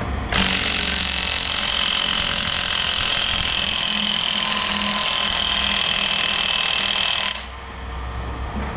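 Impact wrench hammering continuously on a stuck fastener for about seven seconds, with a high whine over the rapid rattle, then stopping abruptly; the part does not come apart.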